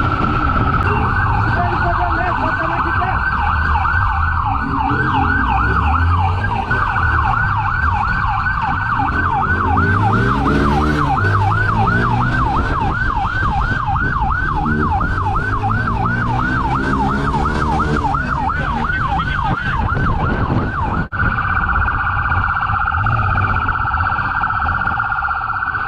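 Police siren in a rapid yelp, sweeping up and down a few times a second, over a vehicle engine that revs up and down beneath it. Near the end the siren changes to a faster, steadier warble.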